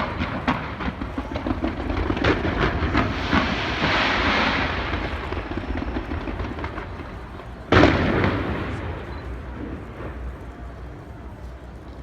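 Fireworks bursting: a quick run of sharp bangs in the first second, a swell of crackling around four seconds in, then one loud bang just before eight seconds in whose echo dies away slowly.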